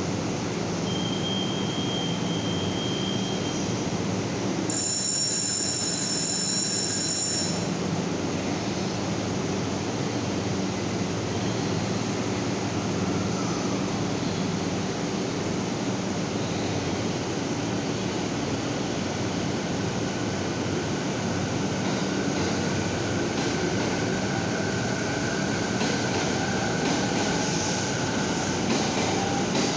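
JR 209 series electric commuter train at a platform. A high electronic signal tone sounds for about three seconds near the start, then from about two-thirds of the way in the train pulls away, its inverter and traction motors giving a whine that rises in pitch as it speeds up.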